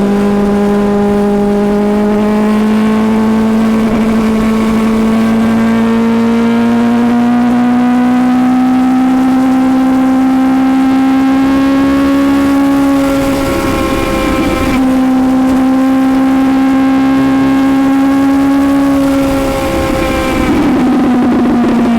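Suzuki GSX-S750's inline-four engine pulling under load at speed, its note climbing slowly and steadily for about thirteen seconds. The note breaks off briefly twice, once about two-thirds of the way in and again near the end, and then drops in pitch as the bike slows.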